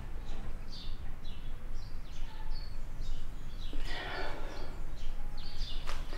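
Birds chirping, many short high calls scattered throughout, over a steady low background rumble.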